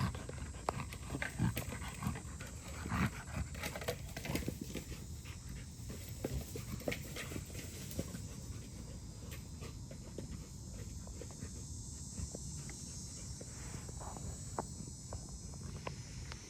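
A dog panting and moving about, with short irregular scuffs and rustles.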